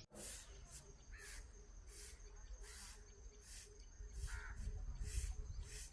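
Crows cawing, a run of short harsh calls about one every half second.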